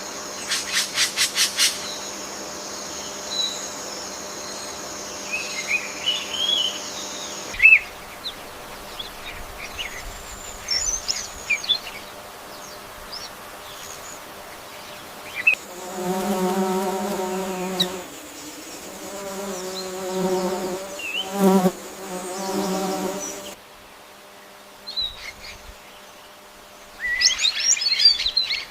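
Forest ambience with birds chirping and whistling in short scattered calls, and a rapid clicking rattle at the start. A low, even buzz like an insect's wings runs for about seven seconds in the middle, stuttering briefly near its end.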